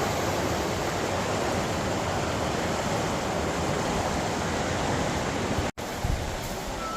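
Shallow stream rapids rushing steadily, a continuous hiss of running water. The sound drops out for an instant near the end.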